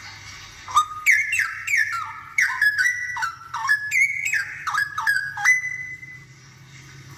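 Straw-headed bulbul (cucak rowo) singing a loud burst of liquid whistled notes, a quick run of falling phrases that starts about a second in and ends on a short held note, over a faint low hum.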